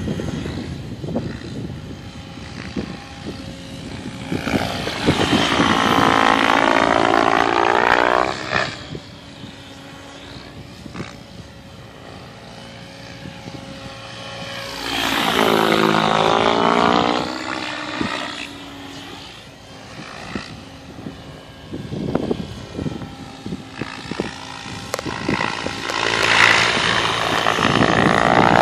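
Align T-Rex 800 radio-controlled helicopter flying, its rotor and motor making a steady hum with a sweeping pitch that swells loud three times, about 5, 15 and 26 seconds in, as it makes close passes.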